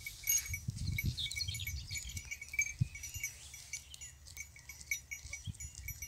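Small bells on grazing goats tinkling irregularly, with a brief busier jingle in the first second or so, over low rumbling gusts.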